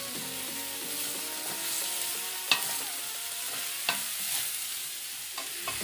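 Button mushrooms sizzling in hot ghee in a frying pan as a spatula stirs them. Two sharp knocks of the spatula on the pan come midway.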